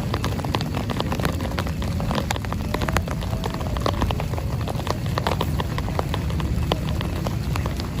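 Heavy rain drumming on a tent: a steady, dense wash with a deep low rush, dotted with many sharp individual drop hits.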